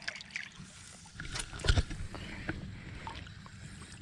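Scattered light knocks and clicks of handling in a small fishing boat, with one louder thump a little under two seconds in.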